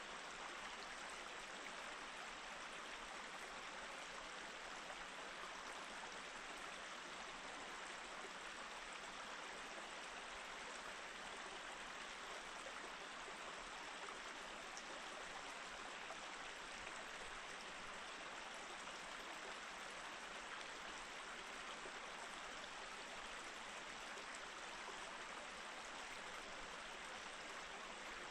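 Mountain stream flowing steadily over rocks, an even rushing and babbling of water with no breaks.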